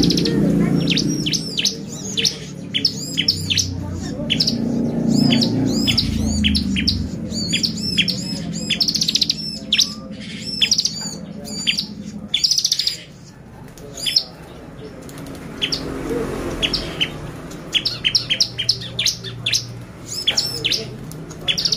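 Bar-winged prinia (ciblek) singing vigorously: rapid bursts of sharp, high, arching chirps, briefly thinning out about two-thirds of the way through, over a low background rumble.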